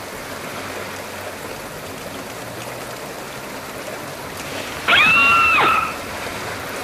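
Steady rain falling. About five seconds in, a loud, short whistle tone that bends up, holds and drops away.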